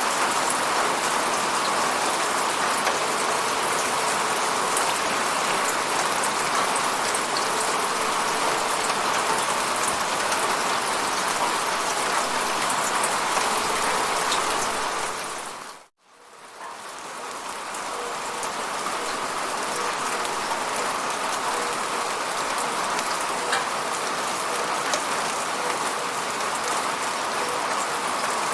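Steady rain falling. About sixteen seconds in it fades out to silence for a moment, then fades back in.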